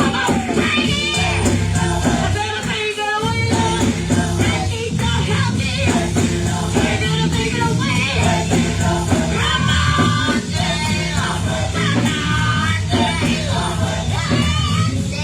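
Live gospel choir with a lead singer and a backing band of bass, keyboard and drums, performing an up-tempo song.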